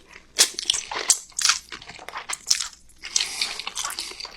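Close-miked mouth sounds of jajang noodles being eaten: irregular wet chewing and biting, with a longer stretch of steady mouth noise about three seconds in.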